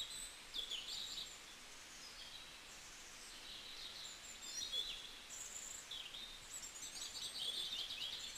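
Birds chirping in the background: short high chirps and trills come and go, busiest about a second in, in the middle, and again near the end.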